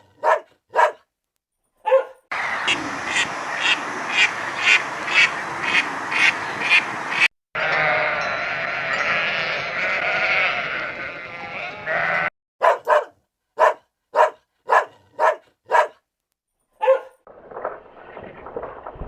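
Farm animal calls in several short clips cut together, with runs of evenly repeated short calls about two a second between them.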